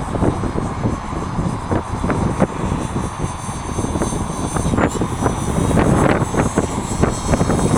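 Gaui Hurricane 255 electric RC helicopter flying, its motor and rotor making a thin high whine that dips in pitch briefly about five seconds in. Heavy wind buffets the microphone with a loud low rumble throughout.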